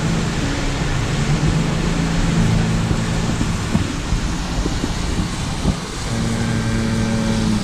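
A car driving, heard from inside the cabin: a steady engine hum under continuous road noise.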